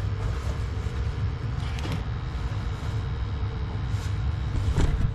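Burner of a newly installed Bradford White 40-gallon gas water heater, just lit, running with a steady low rumble.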